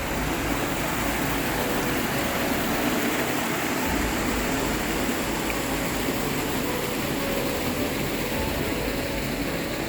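Small waterfall on a mountain stream, rushing steadily.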